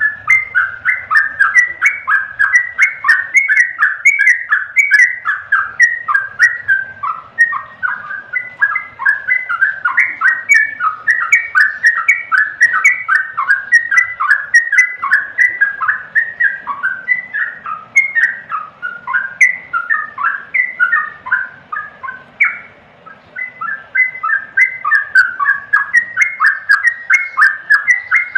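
Yellow-vented bulbul (trucukan) singing: a long run of short, bubbly notes delivered several a second, broken by a pause of about a second roughly three-quarters of the way through.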